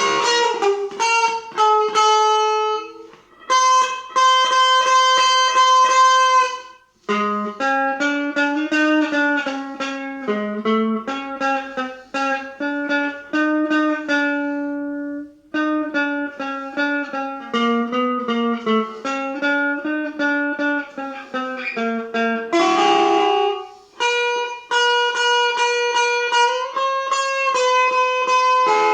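Guitar playing a slow melodic piece of single plucked notes with a lower line beneath them. The notes come in quick runs, with short pauses between phrases.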